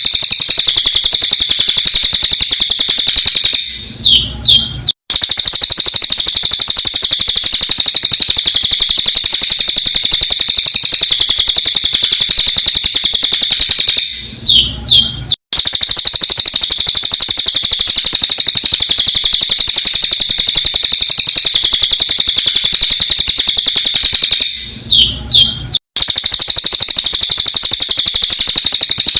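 Cililin bird song in a sped-up recording: a loud, continuous, very rapid high-pitched chattering. About every ten seconds it breaks into a few separate chirps and a short dropout before the chatter starts again, as a looped track does.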